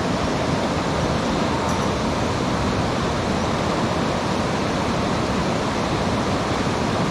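Steady rushing of a mountain stream's flowing water, an even wash of noise without a break.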